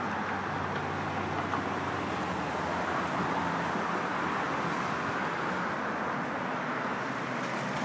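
Steady road traffic noise: an even rush of passing vehicles with a low engine hum underneath, and no single event standing out.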